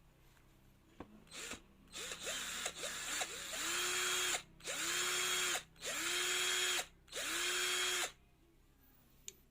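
Cordless hammer drill motor triggered in bursts: a few quick blips, then four runs of about a second each. Each run spins up to a steady whine and stops when the trigger is released.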